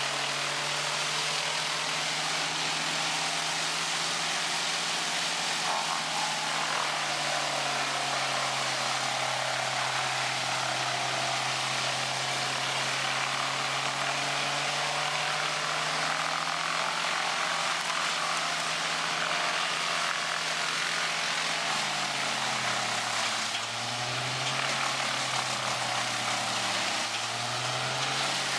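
Heavy machine's engine running steadily under a layer of mechanical noise, its pitch dipping briefly twice near the end.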